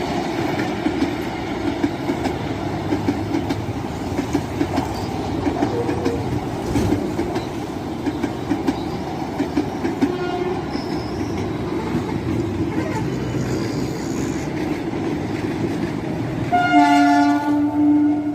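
Trains running past, their wheels rumbling and clattering over the rail joints. Near the end a train horn sounds once for about a second and a half, the loudest thing heard.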